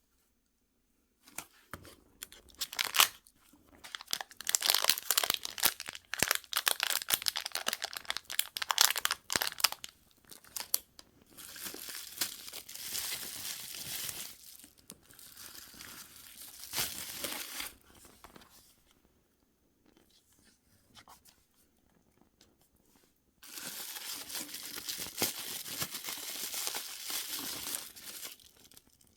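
Packaging being torn open and crinkled by hand, in four bouts of crackly rustling with short pauses between, the first the longest and loudest.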